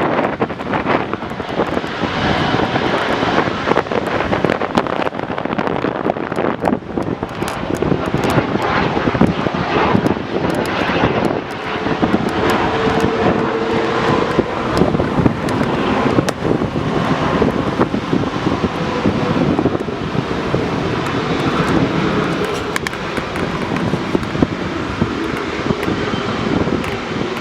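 Jet aircraft engines running steadily, heard through heavy wind buffeting on the microphone.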